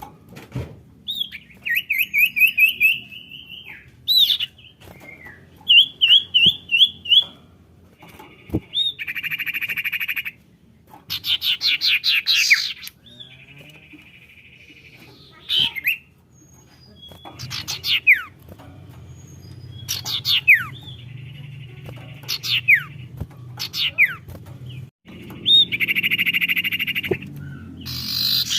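Sirtu (common iora) calling in a run of separate phrases. Rapid trills, buzzy churring notes and sharp downward-sweeping whistles come with short pauses between them. It is a lure call meant to make other sirtu answer.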